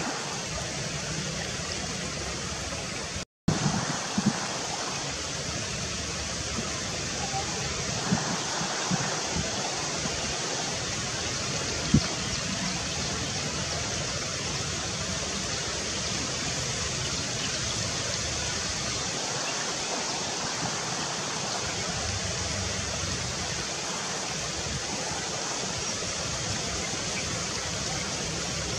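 Steady rushing outdoor noise, like running water, with a few faint clicks; the sound cuts out completely for a moment about three seconds in.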